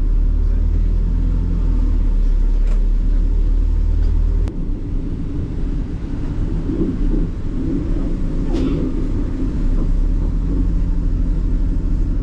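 Low, steady rumble of a motor vehicle's engine heard from inside while it runs. A sharp click comes about four and a half seconds in, after which the rumble turns rougher and uneven.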